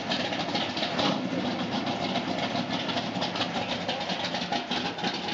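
A car engine idling, its exhaust pulsing rapidly and evenly.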